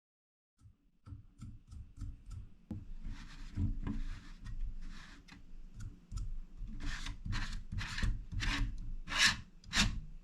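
Repeated rough rubbing or scraping strokes, getting louder and more regular toward the end, over a low steady hum with a pulsing rhythm.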